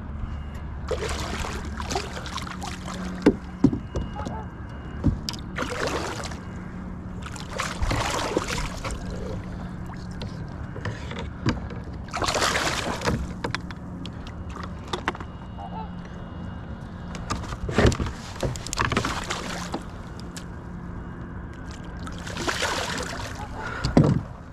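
Kayak paddle strokes in water: irregular swishes a few seconds apart, with small knocks in between.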